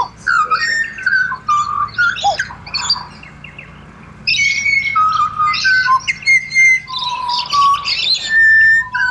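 Pied butcherbird song: clear, flute-like whistled notes, each held briefly at a steady pitch, mixed with harsher chattering squawks. It pauses for about a second a few seconds in, then starts again and runs on.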